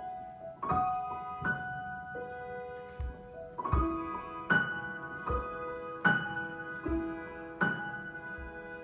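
Improvised piano music: chords struck in an even pulse, a little under one a second, ringing on with held notes beneath.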